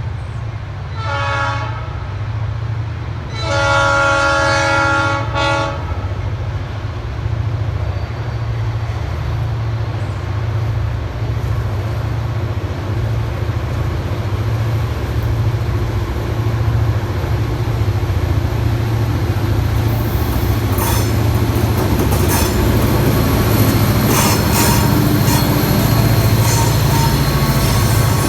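Freight train led by EMD SD40-2 diesel locomotives approaching: the lead locomotive's horn gives a short blast and then a longer one over the steady low rumble of the diesel engines. Later the clatter of wheels on the rail joints and thin wheel squeal grow louder as the train comes closer.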